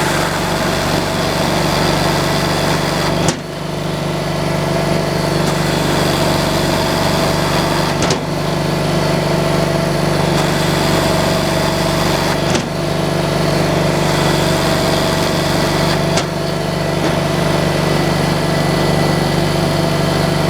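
An engine running steadily at a constant speed. A brief click and a short drop in level come about every four to five seconds, four times in all.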